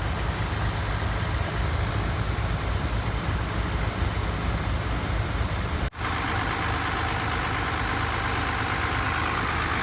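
Truck engine idling steadily, with a short break in the sound about six seconds in.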